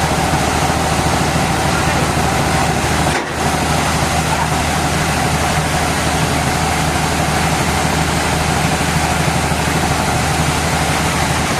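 Sawmill machinery running steadily: a constant engine-like low drone with a steady mid-pitched whine over it, dipping briefly about three seconds in.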